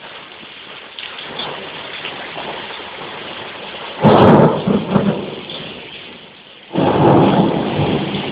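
Steady rain falling, with two loud claps of thunder: the first about four seconds in, the second near the end, each rumbling for a second or two.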